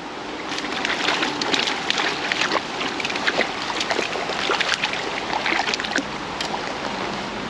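Water splashing and sloshing in quick, irregular bursts over the steady rush of the creek.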